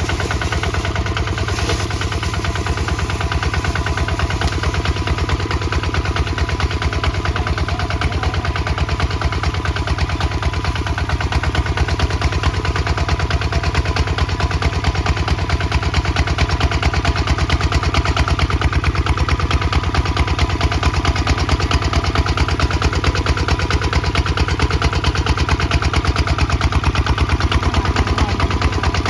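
Kubota ZT155 DI single-cylinder diesel engine running steadily, pulling a plow, with rapid even firing pulses that grow a little louder from about halfway in.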